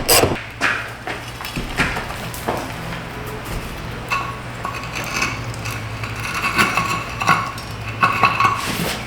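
Irregular metallic clicks and clinks of a socket wrench turning a minivan's spare-tire hoist to lower the spare, with the clicking busiest over the second half, over a steady low hum.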